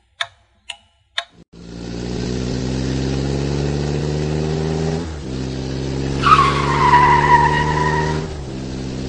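Three sharp clicks, then a car engine sound effect running steadily, dipping briefly twice. From about six seconds in a tyre squeal slides down in pitch over about two seconds.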